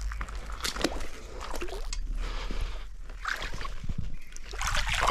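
Footsteps and rustling on wet forest ground, with soft irregular squelches and wet clicks.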